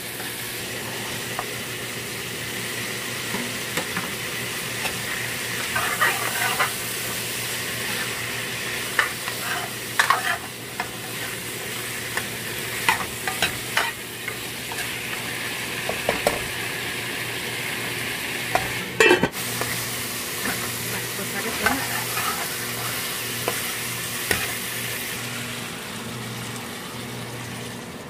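Pork and potatoes frying in a stainless steel wok, sizzling steadily, while a metal ladle stirs them, scraping and clinking against the pan. There is one louder clank about two-thirds of the way through.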